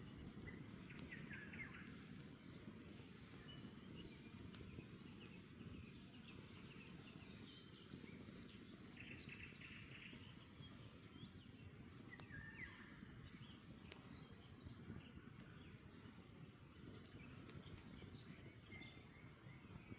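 Campfire crackling faintly, with scattered sharp pops over a low steady rush. Birds chirp briefly now and then: about a second in, around the middle, and near the end.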